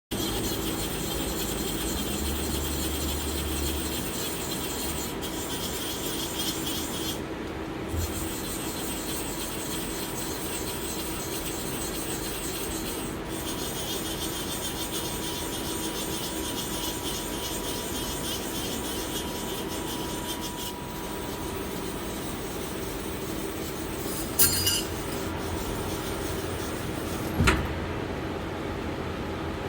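1996 Victor V Turn 36 CNC lathe running under power: a steady mechanical hum with a high whine that comes and goes, and a few sharp clicks, the loudest near the end.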